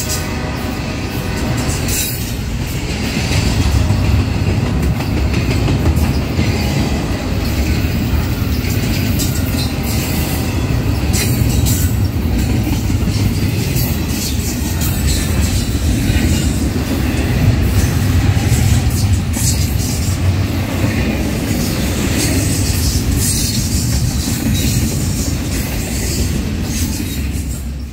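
Double-stack intermodal freight train's well cars rolling past close by: a loud, steady rumble of steel wheels on rail with scattered clicks and clanks.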